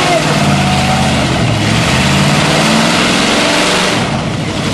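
A vehicle engine running hard, its pitch shifting up and down, over a loud steady hiss.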